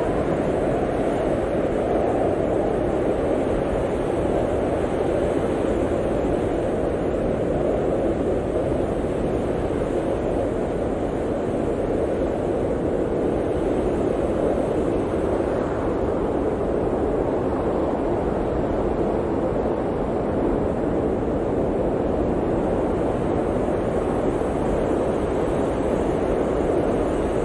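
Blizzard wind blowing steadily: a dense, even rushing noise that keeps up without a break.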